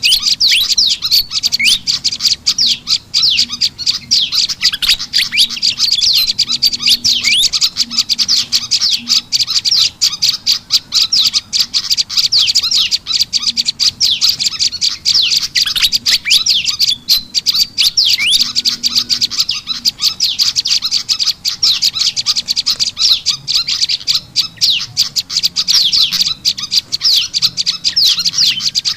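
Bird-lure recording of olive-backed tailorbird calls mixed with Malaysian pied fantail chatter: dense, rapid, high chirps and short sweeping notes without a break.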